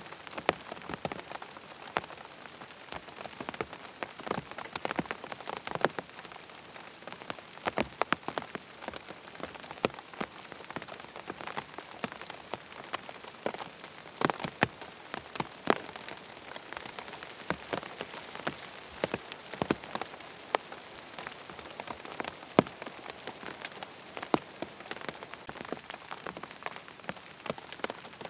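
Steady rain falling on a surface, dotted throughout with many sharp ticks.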